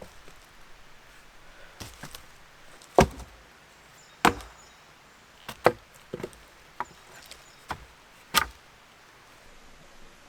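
Sharp blows of a tool striking wood, about seven at uneven intervals. The loudest comes about three seconds in, with a few weaker knocks before it.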